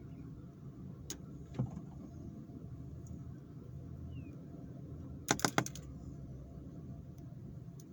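A bird tapping its beak on car window glass: a couple of single taps early on, then a quick run of four or five sharp taps about five seconds in.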